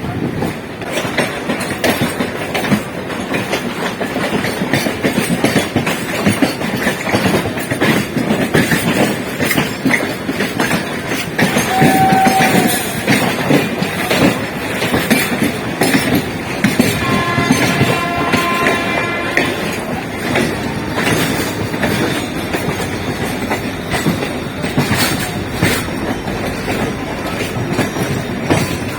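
Electric multiple unit (EMU) local train running at speed, with a steady rattle and clatter of wheels over the rails. About two-thirds of the way through, a train horn sounds for two or three seconds, after a shorter single note a little before.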